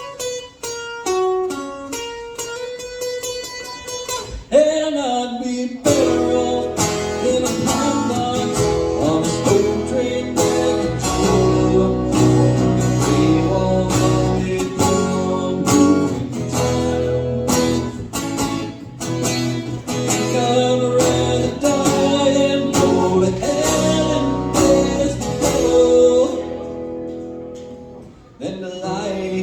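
Live country music on acoustic guitar: a run of single picked notes, then full strummed chords from about six seconds in, with singing, easing off briefly near the end.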